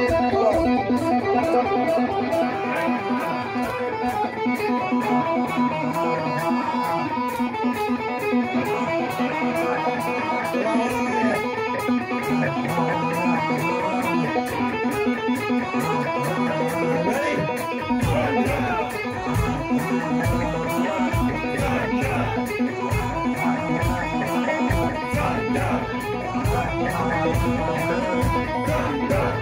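Electric-guitar rock music playing, with guitar riffing over a held note; a heavier low end joins about eighteen seconds in.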